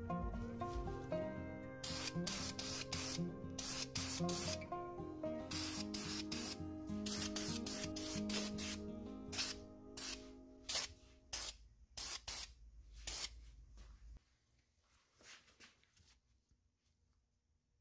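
Ace Premium gray primer aerosol can spraying in many short, irregular bursts onto cast iron box cutter halves. Background music plays under the spraying and fades out about eleven seconds in; the spraying stops about a second after that.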